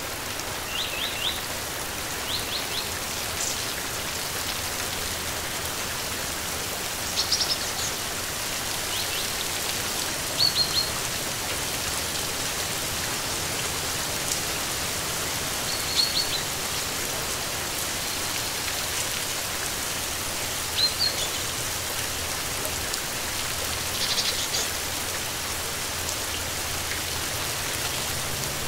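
Steady rain falling, with short high bird chirps in small clusters every few seconds.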